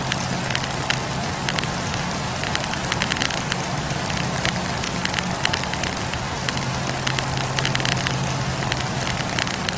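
Wood campfire burning, its logs crackling and popping in quick, irregular snaps over a steady hiss, with a steady low hum beneath.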